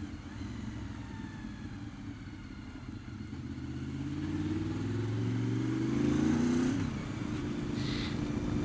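Honda VFR750's V4 engine heard while riding. It runs fairly steadily at first, then rises in pitch and loudness for a few seconds as the bike accelerates, drops sharply in pitch about seven seconds in, and settles into a steady run.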